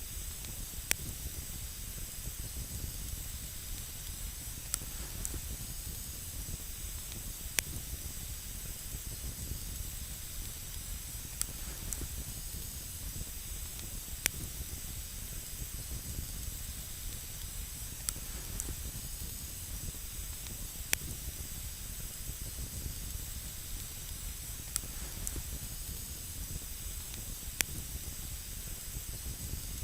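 Wood campfire burning with a steady hiss and sharp crackling pops every few seconds.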